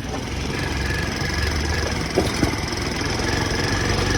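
Cargo motorcycle engine and gearbox running with an abnormal transmission noise, and a couple of sharp knocks a little past two seconds in. The mechanic takes this noise for a broken first-gear pinion.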